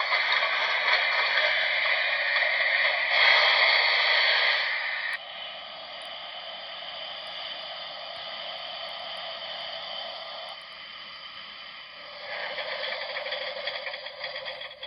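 Steam-locomotive sound played through the small onboard speaker of a Broadway Limited Imports HO scale Shay model: a steady rushing hiss, lower in level from about five seconds in, then louder again with rapid even chuffs from about twelve seconds in.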